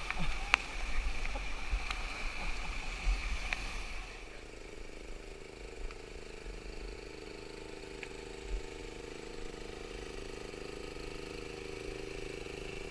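Rushing whitewater and wind on the microphone, with a few sharp knocks like paddles striking the raft. About four seconds in, the rushing drops off suddenly to a quieter, steady low hum.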